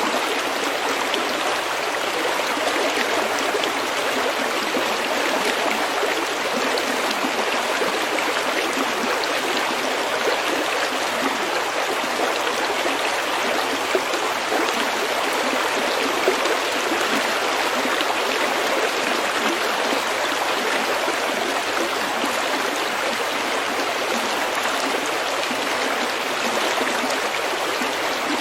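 A shallow stream running steadily over pebbles, with a few small drip-like ticks standing out about halfway through.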